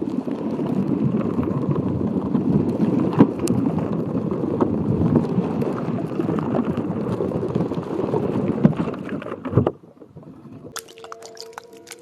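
Water swished and gurgling close to the microphone, with a few sharp clicks. It cuts off abruptly near the end, and after a short gap soft music with quick light taps begins.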